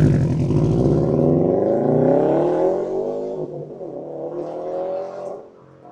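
2018 Subaru STI's turbocharged 2.5-litre flat-four accelerating through an AWE Touring cat-back exhaust. The engine note rises in pitch for about three seconds, dips briefly, rises again, then falls away near the end.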